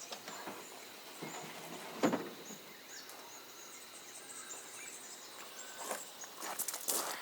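Scattered knocks and rustles of handling at a campsite, with one sharper knock about two seconds in and a quick run of rustling clicks near the end, over a faint steady high hiss of insects and birds.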